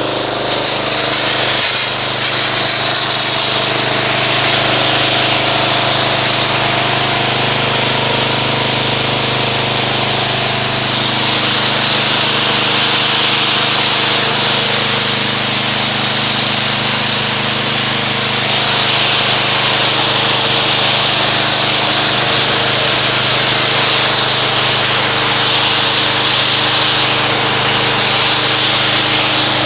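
Pressure washer running and rinsing foam off a car. A steady motor-and-pump hum sits under the hiss of the water jet striking the paint.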